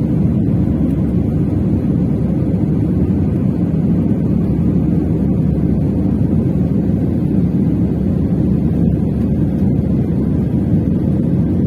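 Steady low roar inside an airliner cabin, from the engines and the air rushing past the fuselage, even and unbroken.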